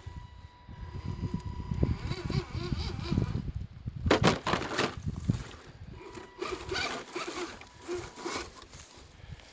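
Farm truck's engine running at low speed while crawling over rock, its pitch rising and falling as the throttle is worked. A short loud burst of noise about four seconds in.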